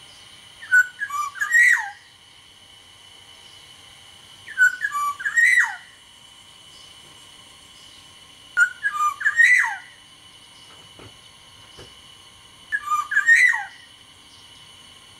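Black-naped oriole (kepodang) singing four short fluty whistled phrases about four seconds apart, each a quick run of notes ending in a falling note.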